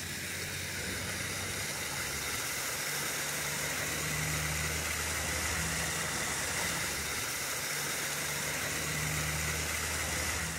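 A motor running steadily, a low hum under a steady hiss.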